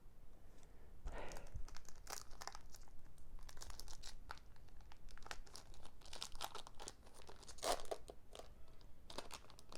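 Foil wrapper of a Pokémon card booster pack being torn open and crinkled by hand, a run of irregular crackling rustles.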